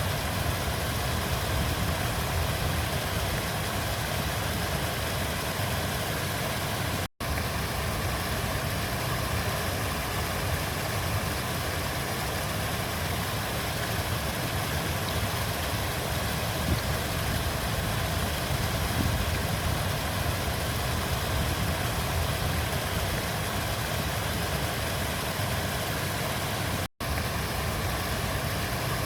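River water flowing in a steady rushing wash with a low rumble, cutting out for an instant twice.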